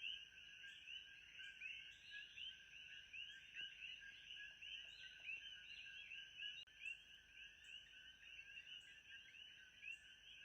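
Faint night-time nature ambience: a dense chorus of short rising chirps, frog-like, over a steady high whine, with a soft pulse repeating about every 0.8 seconds.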